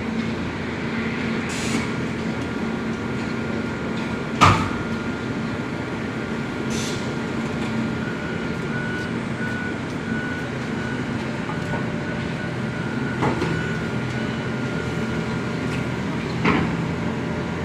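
Heavy construction machine's diesel engine running steadily, with a thin steady whine over it. A sharp clank comes about four seconds in, and a softer one near the end.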